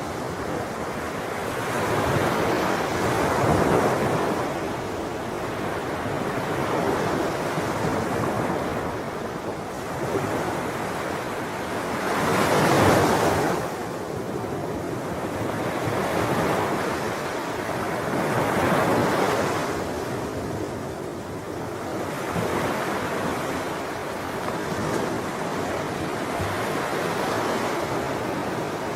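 Sea waves breaking and washing on a shore, the surf swelling and ebbing every few seconds, one wave a little louder about halfway through.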